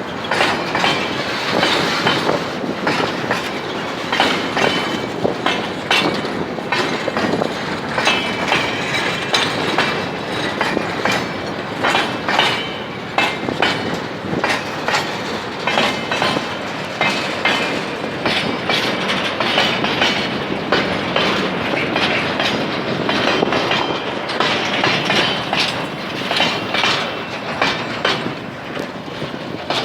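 Freight train wagons rolling past, wheels clicking irregularly over rail joints, with brief high squeals from the wheels now and then.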